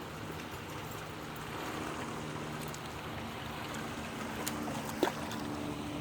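Creek water running steadily, with one short sharp knock about five seconds in.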